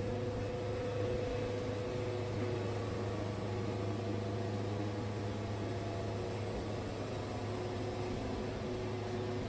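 Wood-Mizer portable band sawmill's engine running steadily, an even mechanical hum with a low drone.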